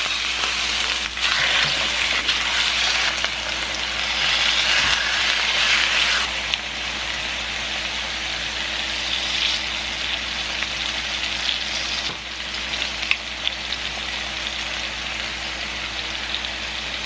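Raw chicken cutlets sizzling in hot oil in a frying pan: a steady frying hiss, a little louder for the first few seconds as the pieces go in, then settling slightly.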